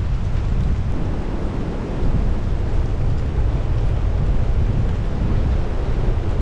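Strong storm wind buffeting the microphone, a loud, rumbling wind roar that surges again about two seconds in.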